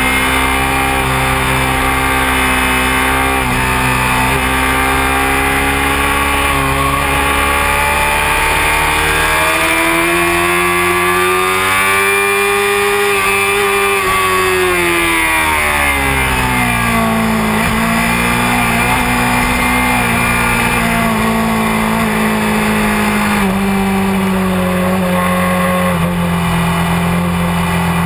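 Honda CBR600F4i inline-four engine pulling on track, heard from on board with wind noise. The engine note holds steady, climbs smoothly for several seconds near the middle, drops back, then holds a steady lower note again.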